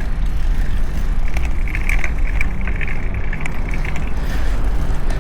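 Riding a mountain bike, heard through a camera's built-in mic: a steady low rumble of wind buffeting the microphone and tyres rolling on pavement. A faint high tone comes and goes around the middle.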